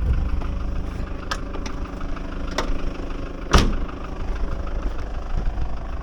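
Vehicle engine idling with a steady low rumble while stopped in traffic. A few sharp knocks sound over it, the loudest about three and a half seconds in.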